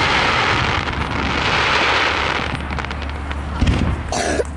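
Aerial fireworks shells at a display: a dense hiss for the first couple of seconds, then scattered pops and a low boom near the end.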